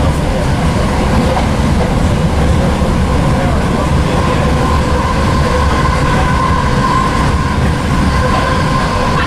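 Interior ride noise of a Northern class 323 electric multiple unit running at speed: a steady, loud rumble of the wheels on the track with a steady whine held on one pitch.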